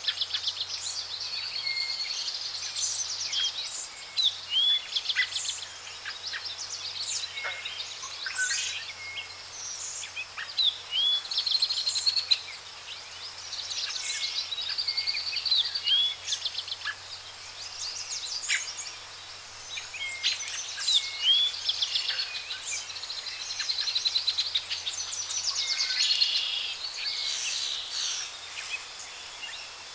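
A chorus of jungle birds calling: short rising whistles repeated every second or two, fast rattling trills and sharp chirps, over a faint steady hiss of forest background.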